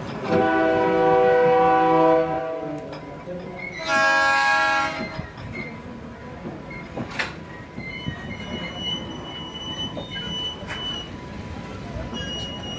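Train horn sounding two blasts, the first about two seconds long and the second about a second long, followed by the rumble of the carriages running over the rails with a thin high wheel squeal near the end.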